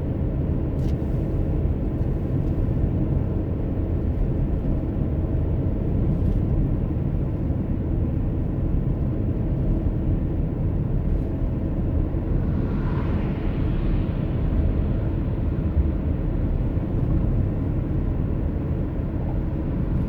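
Steady low road and engine rumble inside a moving car's cabin. A faint hiss swells briefly a little past halfway.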